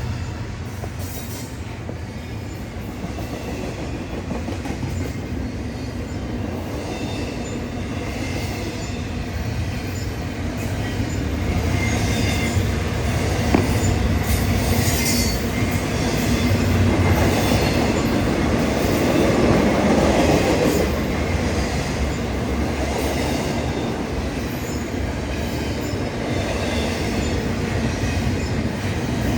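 BNSF double-stack intermodal freight cars rolling past, a continuous rumble of steel wheels on rail with faint ticks and intermittent thin, high-pitched wheel squeal, swelling louder about two-thirds of the way through.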